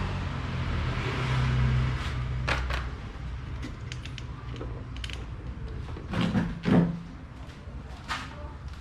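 A low motor hum dies away over the first three seconds. Scattered clicks and knocks follow as parts of an electric fan are handled, with two louder knocks about six and seven seconds in.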